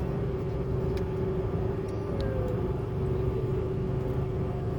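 Steady low drone inside an airliner's cabin with a constant whine, while the plane stands still on the ground.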